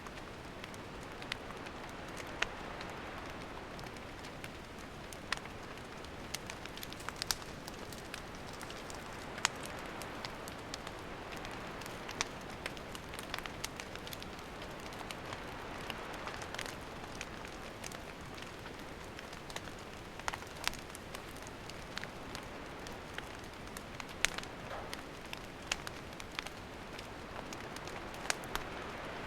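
Wood campfire burning, a steady hiss with frequent irregular sharp crackles and pops.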